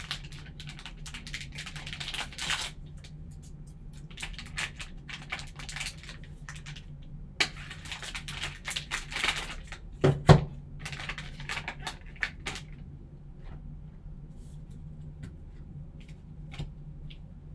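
Sports card value pack being opened by hand: packaging torn and crinkled and cards shuffled, in irregular bursts. A single thump about ten seconds in, then a few light clicks.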